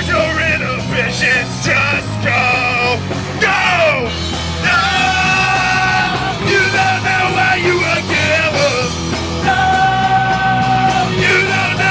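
Live punk rock band playing, a singer shouting and singing over the band, with long held vocal notes about five and ten seconds in.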